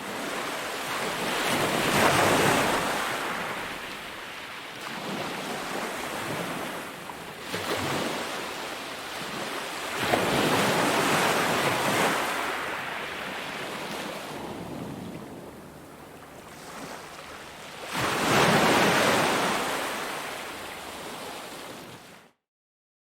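Ocean waves breaking on a beach, the surf swelling and falling back three times about eight seconds apart, then cutting off suddenly near the end.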